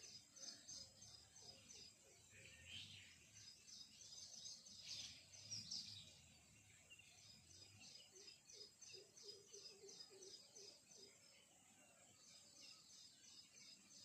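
Faint small birds chirping in quick runs of high notes, about five a second, with a lower pulsing call in places.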